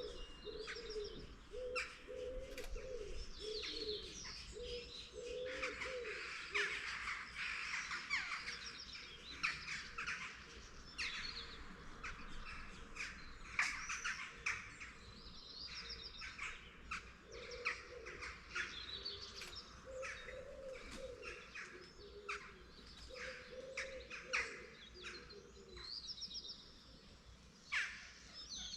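Morning chorus of many small birds chirping and singing over one another. Low cooing phrases come in at the start and again from about two-thirds of the way through.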